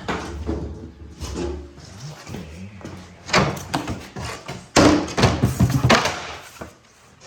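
Knocks, thuds and clatter of a wooden door panel being handled and worked on, loudest about five seconds in.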